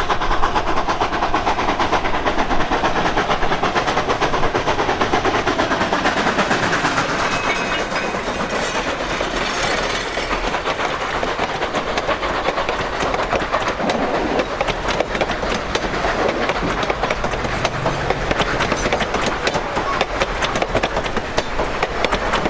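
Durango & Silverton narrow-gauge steam train running, a steady, loud clatter of wheels on the rails.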